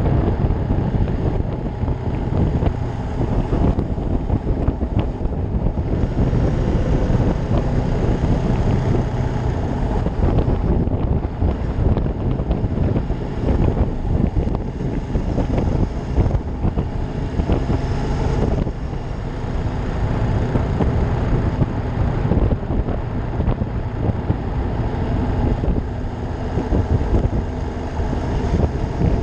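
Ducati Monster 620's air-cooled L-twin engine running steadily while riding, mixed with heavy wind rush on the microphone.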